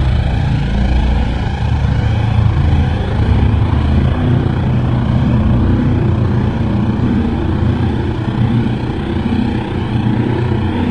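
A loud, steady low rumbling drone with a wavering hum, of the kind filmed and reported as a mysterious sky noise.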